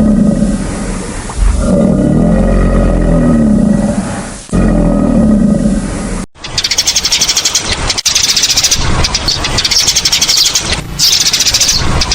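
A tiger roaring and growling in three low, drawn-out calls that rise and fall in pitch. About six seconds in, it cuts to a different animal's fast, high-pitched rasping chatter.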